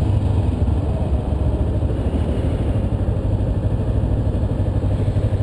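Kawasaki Ninja 250R's parallel-twin engine running steadily, heard through a helmet-mounted camera.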